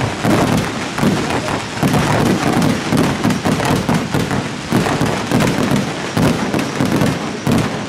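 Fireworks display: a rapid, unbroken run of bangs and crackles from many shells bursting at once.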